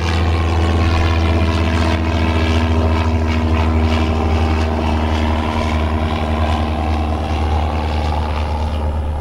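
A steady, loud mechanical drone like a motor or engine running, with a strong low hum and no change in pitch.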